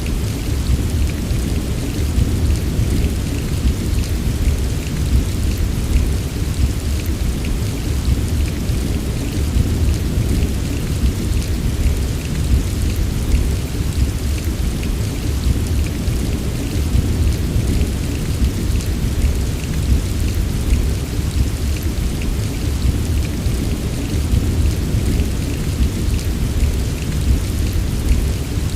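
Heavy rain falling steadily, with a constant deep low rumble beneath and fine scattered drop patter on top.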